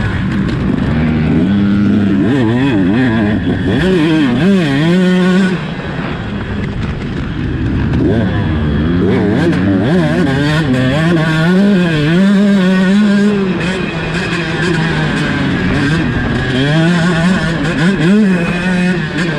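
Two-stroke 125cc motocross bike engine revving hard and backing off over and over as it is ridden, its pitch climbing and falling with each surge. About five and a half seconds in it drops off sharply before picking up again.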